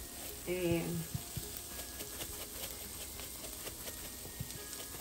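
Sardine and onion filling sizzling gently in a frying pan, with light irregular clicks and scrapes of the utensils in the pan. A brief murmur of voice comes about half a second in.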